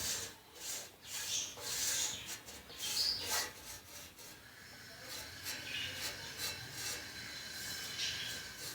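Broom bristles brushing dust off an old ceiling fan in a series of irregular strokes, the strongest in the first few seconds, then lighter ones.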